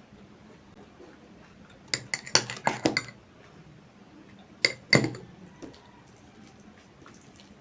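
Cutlery clinking against a plate during a meal: a quick run of sharp clinks about two seconds in, then two more around five seconds.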